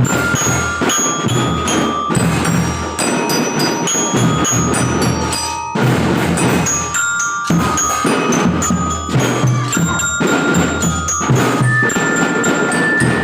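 Children's drum band playing a tune: a bell-like melody of short high notes over snare and bass drum beats. The drums drop out briefly around the middle.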